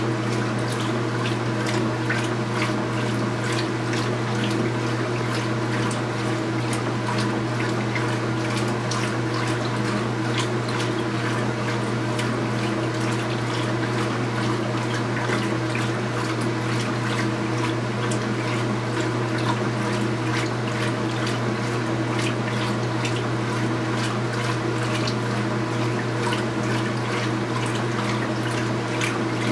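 2015 Speed Queen 8 Series top-load washing machine running mid-cycle: a steady motor hum under continuous water sloshing and splashing in the tub.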